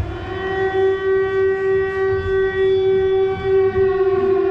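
An alarm sound effect played back over speakers: one steady, unchanging alarm tone with a buzzy edge, starting abruptly and held throughout, signalling an emergency call-up.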